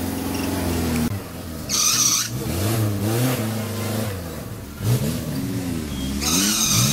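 A Suzuki Jimny 4x4's engine revving up and down several times under load as the vehicle struggles to climb out of mud on a rocky trail. There are two bursts of hissing noise, about two seconds in and near the end.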